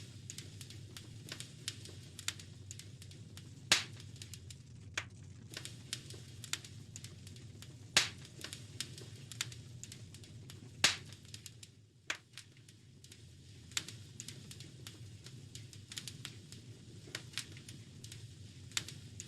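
Wood fire crackling in a fireplace: a constant scatter of small snaps and pops over a low steady rumble, with three louder pops about four, eight and eleven seconds in.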